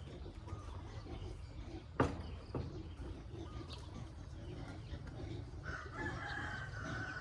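A rooster crowing near the end, one drawn-out call. Before it, about two seconds in, comes a sharp knock and a smaller one just after.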